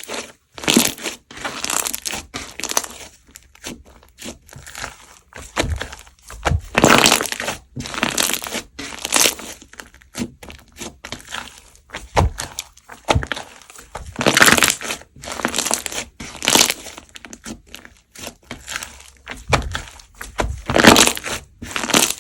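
Foam-ball slime being squeezed and pressed by hand, its foam beads crunching and crackling in repeated bursts about every one to two seconds.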